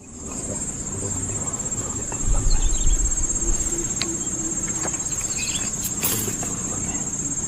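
A steady, high-pitched chorus of insects at dusk, with a low rumble about two seconds in and a couple of faint clicks later.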